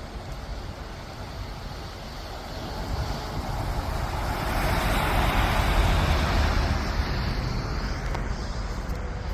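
A road vehicle passing: tyre and engine noise swells to a peak about six seconds in and fades away, over a steady low rumble.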